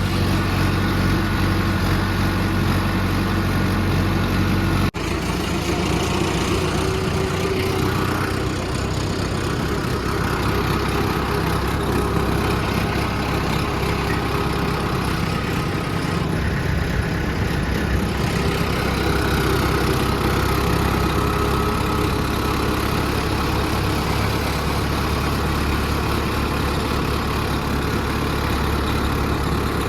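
Mahindra Arjun 555 tractor's diesel engine running steadily, with a brief sudden dip in sound about five seconds in.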